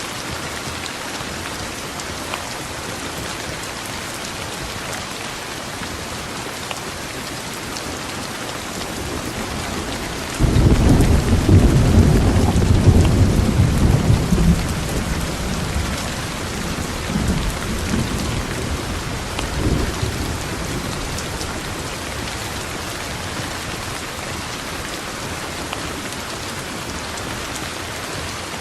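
Steady rain hissing, broken about ten seconds in by a sudden, loud thunderclap that rolls on as low rumbling for several seconds, with a last rumble just before twenty seconds.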